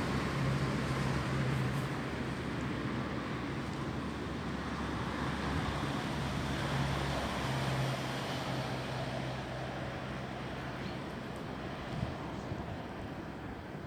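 Wind blowing through tree branches as a steady rushing noise, with a low drone underneath that comes and goes and fades out after about ten seconds.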